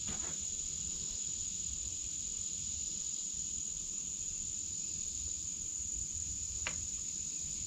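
A steady high-pitched drone with one sharp click near the end.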